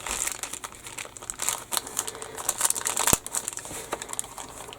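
Plastic kit bag crinkling as a plastic model sprue is handled and moved around in it, with one sharp tap about three seconds in.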